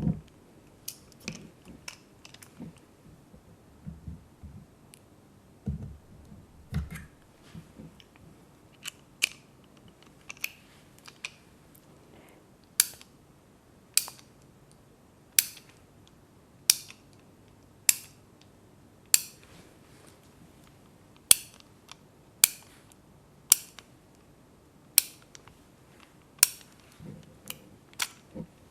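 Close-up handling sounds: scattered soft taps and low knocks, then a regular run of crisp, sharp clicks, about one every second and a quarter, in the second half.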